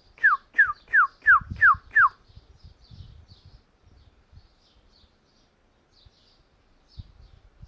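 Northern cardinal singing a run of six clear whistled notes, each sliding downward, in quick even succession, followed by faint scattered chips.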